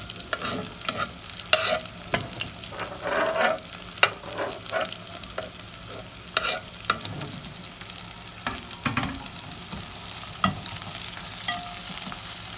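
Thinly sliced onions frying in oil in a pan, with a steady sizzle and irregular clicks and scrapes of a utensil stirring them against the pan. The onions are in the early stage of frying, on their way to being browned.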